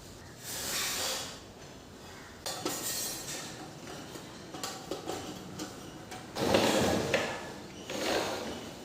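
Household handling noises: several short scraping, rubbing swells with small clacks between them, the loudest about two-thirds of the way through.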